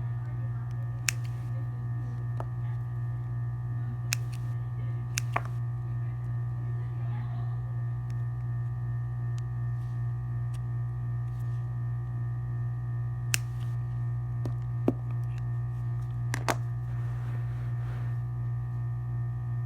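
A steady low electrical-sounding hum with a few faint steady higher tones, and about seven sharp small clicks or taps scattered through it.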